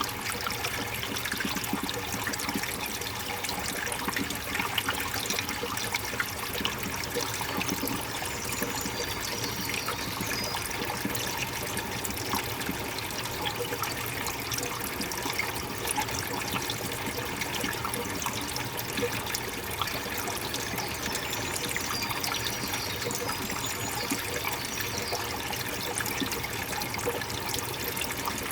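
Stream water running and trickling steadily, with an even rushing sound.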